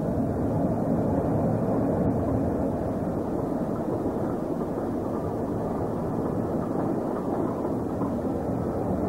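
A railway train running, heard as a steady, muffled noise with no distinct beats or clicks.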